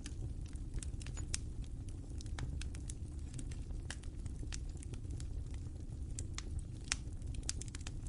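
Wood fire burning, with irregular sharp crackles and pops over a steady low rumble; one louder pop about seven seconds in.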